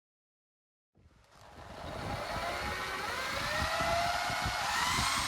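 A motor running up to speed: a rough mechanical noise with a whine that rises in pitch, starting about a second in.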